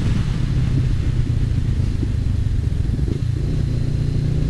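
Honda CBR500R's parallel-twin engine running steadily while riding, with a steady rush of wind noise over it.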